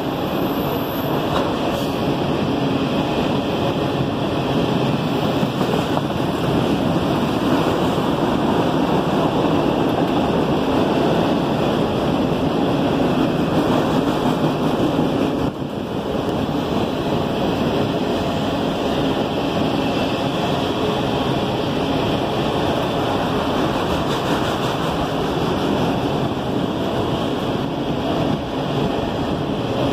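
CSX freight train of enclosed autorack cars rolling past, a steady noise of steel wheels on rail that dips briefly about halfway through.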